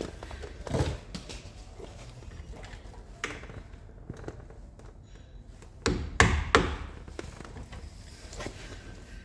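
Clunks and knocks of tools and metal parts being handled while a car's rear suspension hub is dismantled: a few scattered knocks, the loudest pair about six seconds in.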